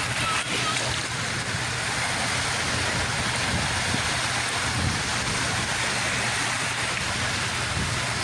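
Sea waves and water rushing in a steady wash, with a steady low hum underneath.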